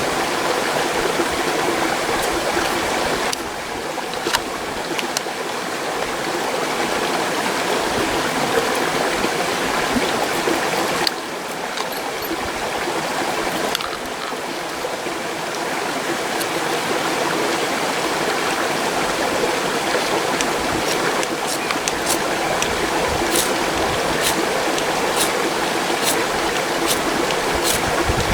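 Mountain stream rushing steadily, with a run of sharp clicks over the last few seconds.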